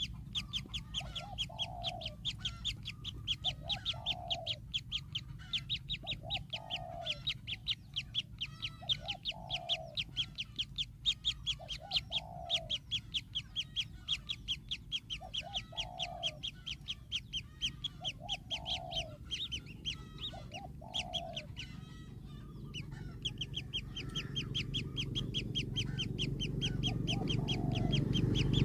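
Birds calling: a rapid, high-pitched chipping about five notes a second, with lower falling notes in pairs every couple of seconds. A low rumble grows louder over the last few seconds.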